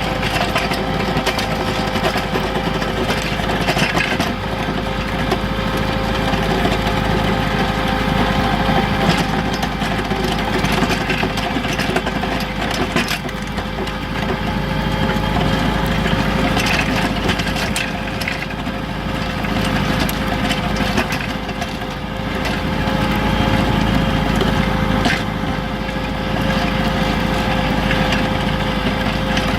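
Kubota L3600 tractor's three-cylinder diesel engine running steadily under load while it pulls a rear snow blade. A constant whine sits over the engine sound, and a few short knocks come through.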